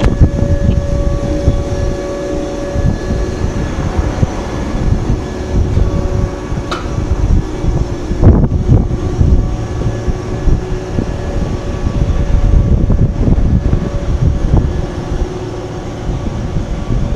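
KuMoYa 143 electric service car and 209-series train cars rolling slowly past just below, giving a continuous low rumble with a faint steady electric hum and one light click partway through.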